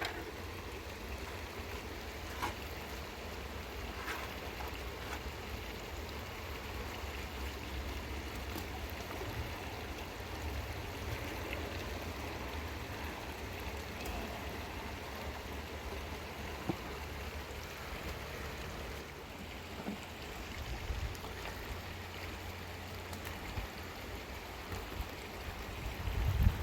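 Steady rush of running floodwater and rain, with wind rumbling on the microphone that gusts harder near the end.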